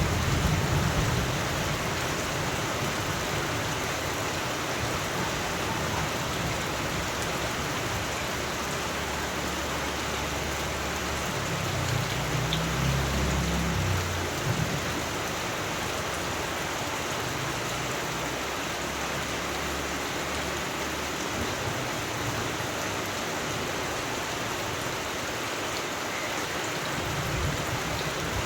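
Steady rain hiss, with the tail of a thunder rumble fading in the first second and another low rumble of thunder from about twelve to fourteen seconds in.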